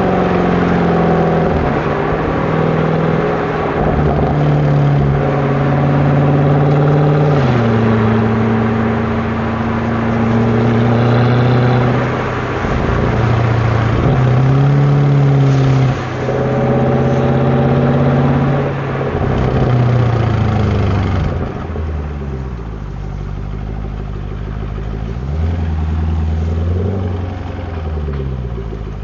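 Mercedes-Benz W204 C63 AMG's 6.2-litre V8 running at low to moderate revs. Its note holds steady, then drops or swings up and down several times, and it is lower and quieter over the last third.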